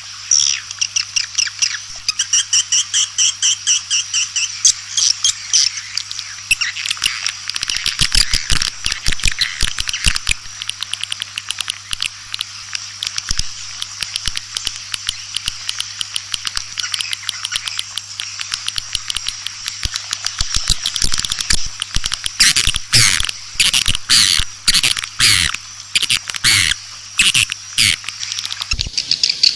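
Swiftlets twittering: rapid, overlapping trains of short high chirps and clicks, the chattering call sound used as a lure in swiftlet farming. The calls grow louder and more bursty after the middle, over a steady low hum.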